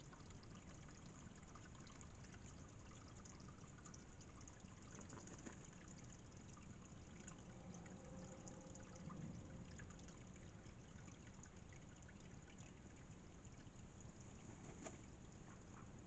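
Faint, steady trickle of water.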